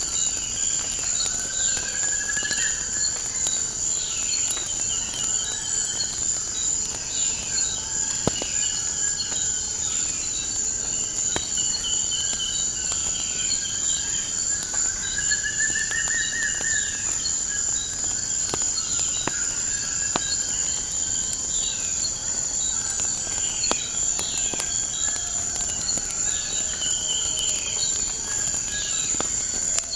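A continuous high-pitched insect trill with birds calling over it: repeated short falling chirps and two longer rising phrases. Scattered sharp crackles from a wood fire sound throughout.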